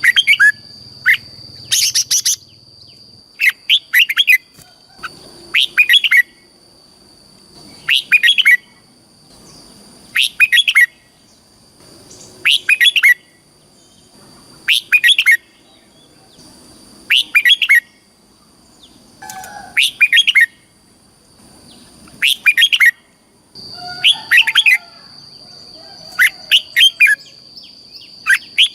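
Red-whiskered bulbul singing: short, bright whistled phrases repeated about every two seconds, over a steady high-pitched tone.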